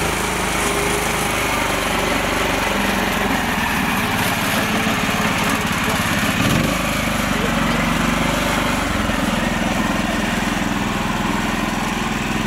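Mini tractor's small engine running steadily, its note shifting about halfway through as it works.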